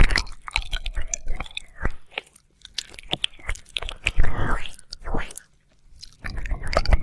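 Wet mouth sounds of ASMR ear licking, right up against the microphone: irregular clusters of sharp clicks and smacks, with a short pause about five and a half seconds in.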